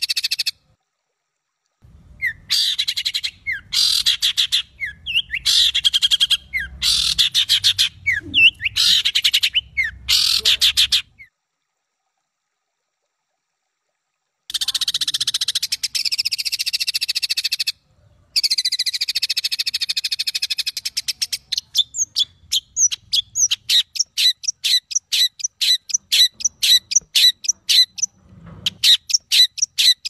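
Harsh, rapid bird calls in dense runs, broken twice by sudden silent gaps where the recording is spliced, then an even series of sharp separate notes, a few a second, near the end. This is a harsh-call masteran recording of the kind used to train caged songbirds.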